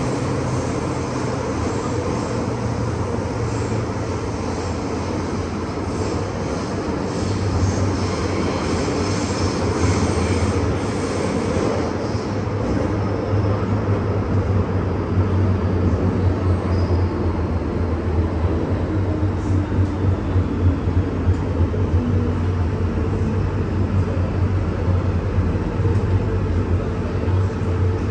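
MTR M-Train electric multiple unit running on the line: a steady rumble of wheels on rail with a low hum from the running gear, which grows louder about seven seconds in.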